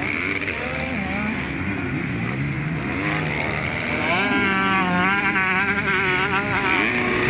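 Several 250 cc motocross bikes racing, their engines revving up and down. About four seconds in, one bike's engine becomes the loudest, its pitch wavering quickly up and down.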